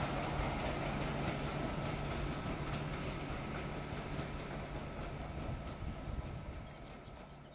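Steam-hauled train running along the line, a steady rumble of wheels on rail that fades away near the end.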